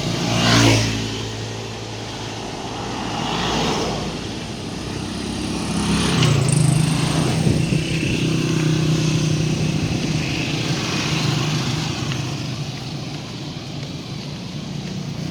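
Road traffic passing close by. One vehicle goes by loudly about half a second in and another near three and a half seconds; from about six seconds an engine hums steadily for several seconds.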